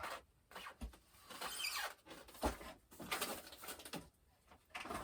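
Intermittent rustling and handling noises, with a couple of light knocks, as packaging and foam model airplane parts are moved about.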